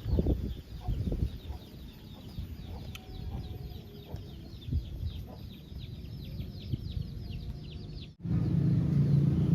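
Chickens clucking, with rapid high chirping of small birds or insects. About eight seconds in the sound cuts off abruptly and a steady low rumble begins.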